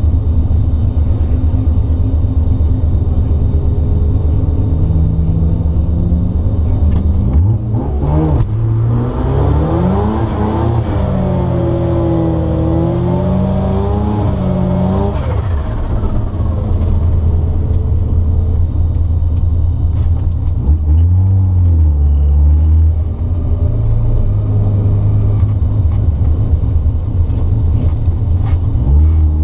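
Turbocharged 13B rotary engine of a 1972 Mazda RX2 idling, heard from inside the car's cabin. About a third of the way in the revs rise and fall several times over some eight seconds, and they swell briefly again twice later on.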